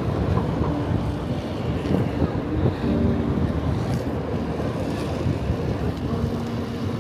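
Steady rumble of a moving monorail car, with wind buffeting the microphone.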